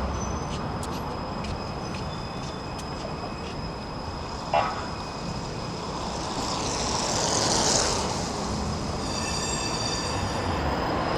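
Steady city street traffic noise heard from a moving electric scooter. There is a brief sharp sound about four and a half seconds in, a rising hiss a little later, and a high whine near the end.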